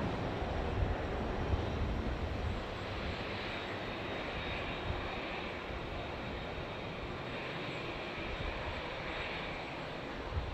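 Airliner jet engines heard as a steady broad rush with a faint high whine, a little louder at first and easing after about two seconds.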